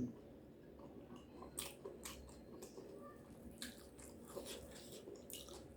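A person chewing food, with faint, irregular crunches and clicks.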